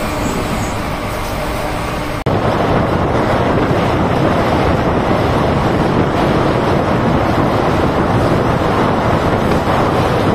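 Express passenger train running at about 104 km/h, heard from inside the coach: a steady rumble of wheels on the rails. About two seconds in, it jumps suddenly to a louder rush of wind and track noise at the open coach window.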